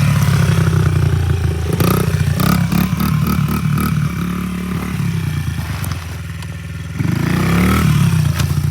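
Small dirt bike engine running under throttle, with a rattling clatter a couple of seconds in. About seven seconds in it revs up and back down.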